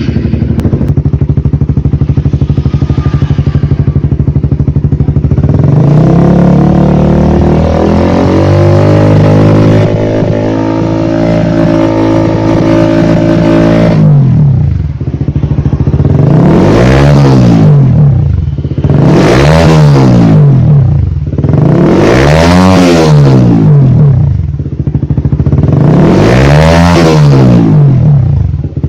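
Honda CBR 150's single-cylinder engine through an aftermarket racing exhaust. It idles steadily, rises to a held higher speed for several seconds, then is blipped four times with sharp rises and falls. The exhaust has a medium tone, not very loud and not very bassy.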